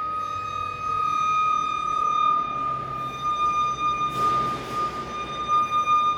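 A steady high-pitched tone with overtones, like an electronic alarm or whine, sounding unbroken; a short burst of hiss about four seconds in.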